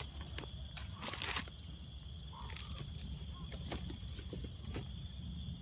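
Steady high-pitched trilling of a cricket chorus, with scattered light clicks and rustles.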